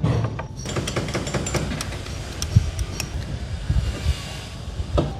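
A run of irregular clinks and knocks over a low rumble, like tools working on metal engine parts.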